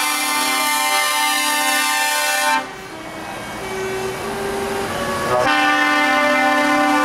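Truck air horns sounding long, steady multi-tone blasts. A loud horn cuts off about two and a half seconds in, leaving fainter horn tones, and a loud blast starts again a little over five seconds in.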